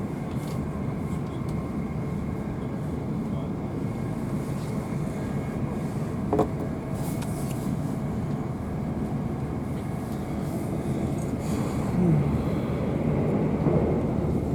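Class 444 electric multiple unit running at speed, heard from inside the carriage: a steady rumble of wheels on rail with a faint steady whine and a brief short squeak about six seconds in.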